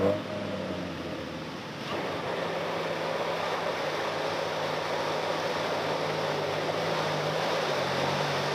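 A four-wheel drive's engine running steadily at low revs as the vehicle crawls through deep muddy ruts, under a steady hiss. The engine note drops a little near the end.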